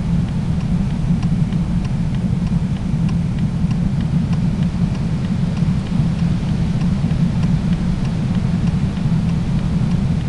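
Steady low rumble of a car on the road, with a faint regular ticking about twice a second.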